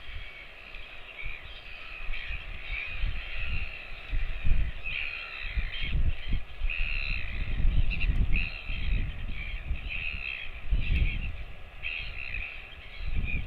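Crows calling over and over in a series of harsh caws, with low rumbling noise underneath.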